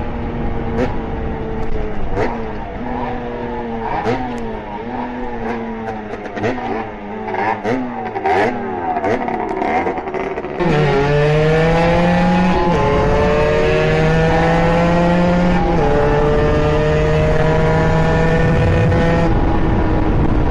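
Small two-stroke dirt bike engines being ridden hard. For the first ten seconds the engine note rises and falls with throttle and gear changes. About ten seconds in it jumps louder to a steady high-revving note held at full throttle, dropping a little at two upshifts.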